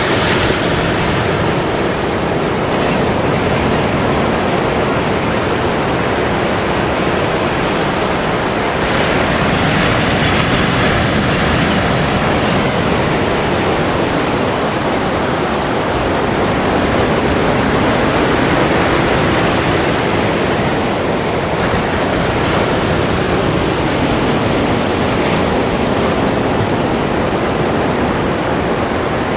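Ocean surf washing in a continuous dense rush, swelling a little louder about nine seconds in and again near two-thirds of the way through.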